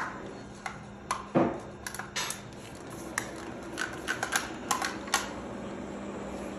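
Shark robot vacuum cleaner running, with a steady motor hum under irregular clicks and knocks, and a heavier thump about a second and a half in.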